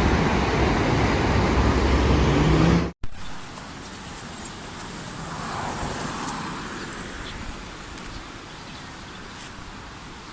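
Loud vehicle noise with a steady low engine hum, cut off abruptly about three seconds in; then quieter outdoor traffic ambience in which a vehicle faintly swells past.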